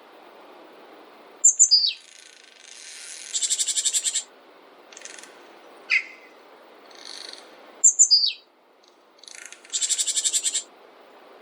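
Small songbirds calling over a soft steady hiss. There are short high notes that drop in pitch, twice, and two fast high-pitched trills of about a second each.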